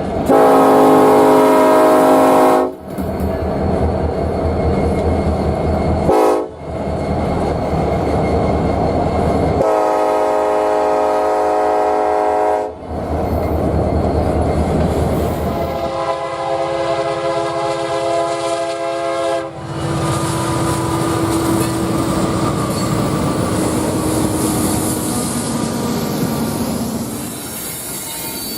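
Locomotive horns blowing at passing trains, in several short clips joined by abrupt cuts: three long multi-tone horn blasts and one short one, with heavy rumble and rail clatter of the passing trains between them.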